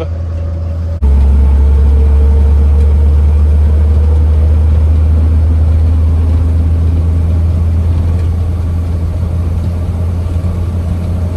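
1953 Chevrolet 6100 truck's straight-six petrol engine running on the move, with a steady low rumble of engine and road noise heard inside the cab. About a second in, the sound jumps suddenly louder.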